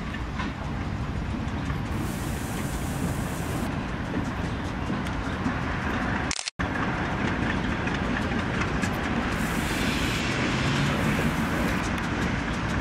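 Freight train rolling past: steel wheels rumbling and clicking over the rails, steady throughout. About halfway there is a brief dropout at a cut, after which a pair of GE B23-7 diesel locomotives goes by with their engines running.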